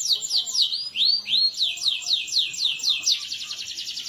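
Canary singing: quick runs of repeated falling chirps, a few slower rising-and-falling whistles about a second in, then a faster, denser roll near the end.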